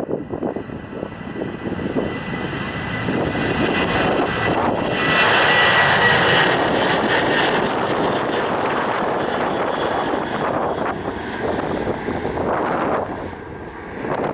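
Airliner's engines passing close by, swelling to a loud peak about five seconds in and then easing off, with a thin steady whine over the noise.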